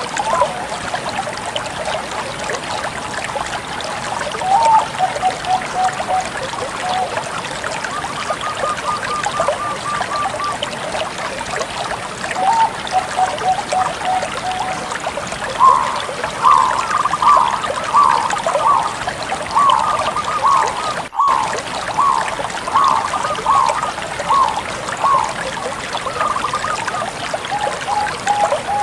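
Bangkok-type perkutut (zebra dove) cooing in repeated phrases of short notes, with a longer run of quick, downward-slurred notes from about halfway to near the end, over a steady background hiss.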